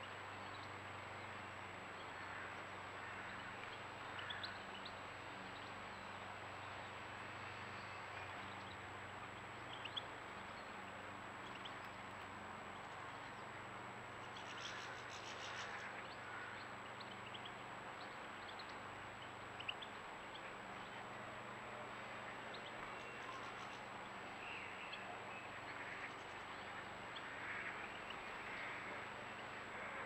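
Faint, scattered short chirps of small birds over a steady hiss and a thin, constant high whine, with a couple of small clicks.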